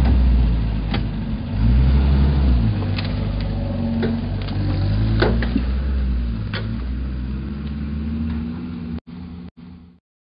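Four-by-four vehicle's engine running and revving, its pitch rising and falling a few times, with scattered clicks. It cuts out with two brief dropouts near the end.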